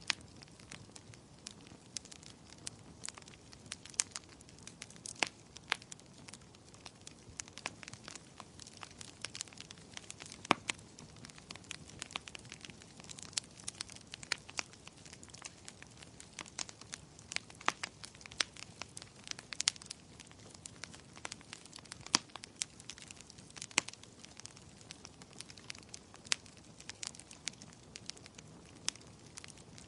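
Wood fire burning in a fireplace: irregular sharp crackles and pops over a soft steady hiss, a few louder pops among them.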